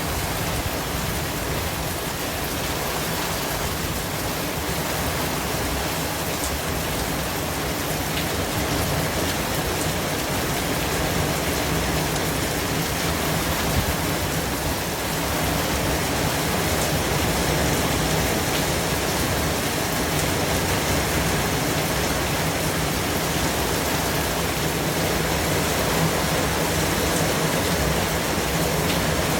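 Continuous white-noise track: a steady, even rush of noise with a rain-like texture and a few faint ticks.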